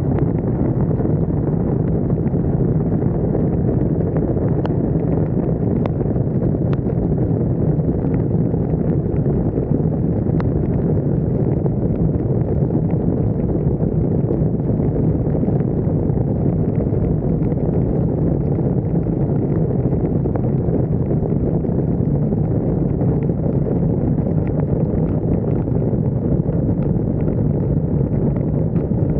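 Steady wind rush and road noise on a roof-mounted camera of a moving vehicle, with a few faint ticks about five to ten seconds in.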